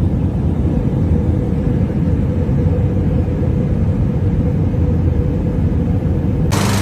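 A heavy engine running steadily, a loud low rumble with a constant hum over it. About six and a half seconds in, a sudden loud hiss cuts in.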